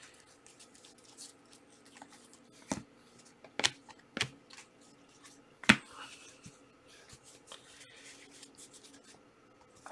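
Trading cards and packs being handled: a scattering of sharp clicks and taps, the loudest about four and six seconds in, with light rustling between.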